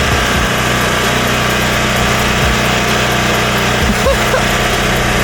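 A small engine running steadily, a continuous low hum with a noisy edge.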